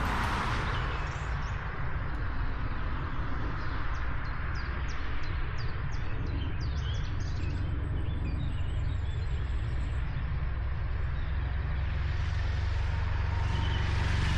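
A low, steady vehicle rumble that swells a little near the end, with birds chirping over it in the first half.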